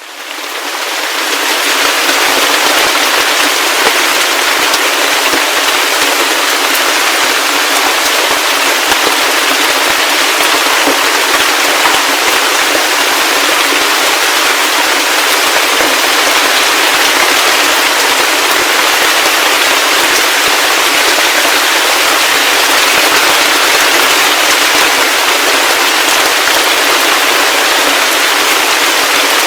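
Heavy rain falling: a dense, steady hiss full of fine drop crackles, fading in over the first couple of seconds, with no low rumble.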